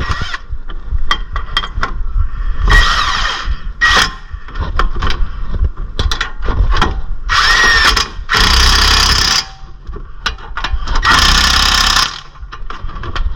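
A handheld power tool runs in three short bursts during a brake job, with metal clinks and knocks from tools and brake parts between the bursts.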